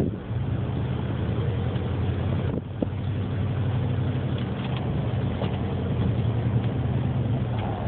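An engine running steadily at a low, even pitch, dipping briefly about two and a half seconds in.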